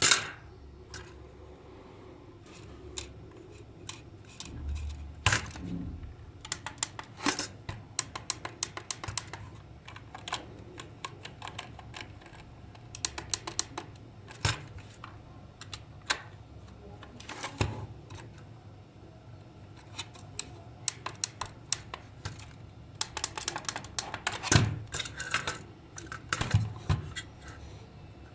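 Irregular clusters of small sharp clicks and taps from hard plastic and metal parts being handled and worked on with tools, with a loud click at the start and a few heavier knocks near the end.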